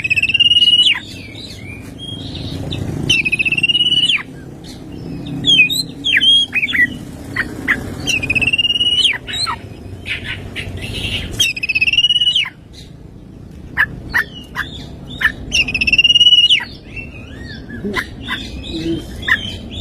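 Oriental magpie-robin (kacer) singing a loud, varied song. Wavering, buzzy notes near 3 kHz, each held about a second, recur several times, with quick sharp downward-swooping whistles and chips between them.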